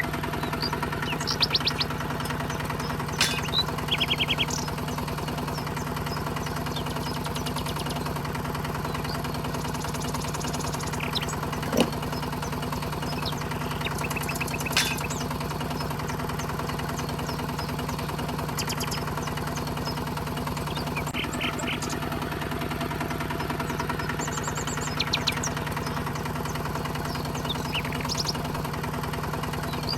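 A small motor hums steadily, with short high chirps now and then and a sharp click about twelve seconds in.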